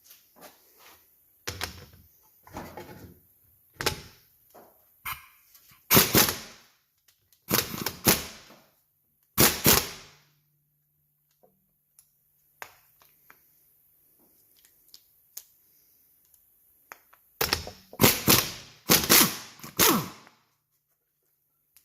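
Sharp metallic knocks and clanks of tools and parts during work on a car's suspension, coming in two clusters of loud strikes with smaller knocks between them.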